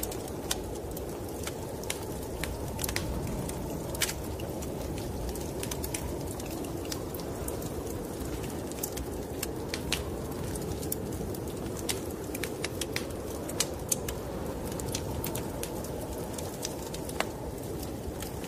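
Wood fire crackling with irregular sharp pops, over a steady low rushing noise of wind.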